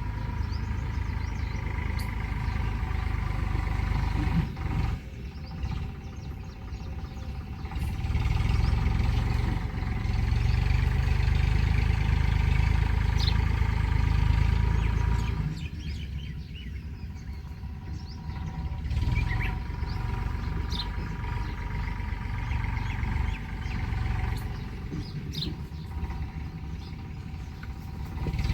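A low rumble that swells and fades, with birds chirping now and then over it.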